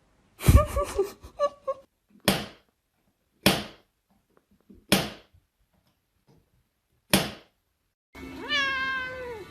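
A cat vocalizing: a cluster of sharp calls, then several short, noisy, breathy bursts about a second or so apart, and near the end a drawn-out meow.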